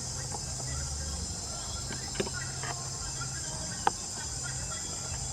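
Steady high-pitched chirring of insects, like a cricket chorus, over a low hum. Two short sharp clicks come about two and four seconds in.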